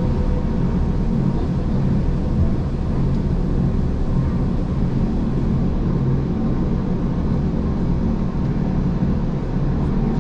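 Gornergrat Bahn electric rack-railway train running downhill, heard from inside the carriage: a steady low hum of the running gear and motors with faint steady tones above it.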